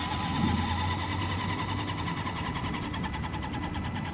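Electric motor and drivetrain of an FMS 1/10-scale Ford F-100 2WD RC monster truck whining as it drives, the pitch rising and falling with the throttle. The drivetrain is loud and sounds rough.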